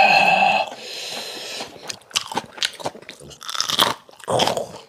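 Close-up chewing and crunching of crisp raw greens, heard as many short crackling bites. It opens with a brief pitched vocal sound.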